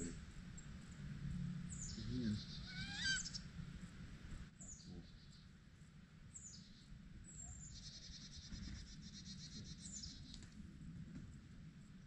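Birds calling faintly: thin high whistles that slide down into short rapid trills, repeated every second or two, with a longer trill near the end. About three seconds in, a single wavering whistle rises steeply.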